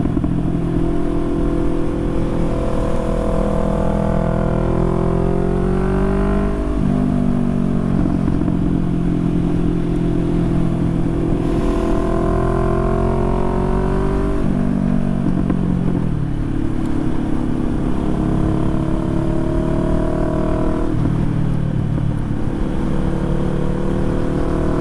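Harley-Davidson V-twin motorcycle engine running under way. Its note climbs and falls several times as the rider works the throttle and changes gear. Low wind rumble runs underneath.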